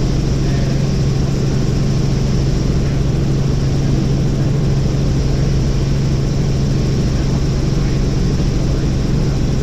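Helicopter in flight, its engine and rotors running steadily: a loud, even drone with a strong low hum.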